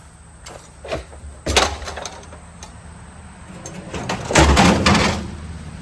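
A sharp knock about a second and a half in, then a louder scraping thump lasting about a second near the end.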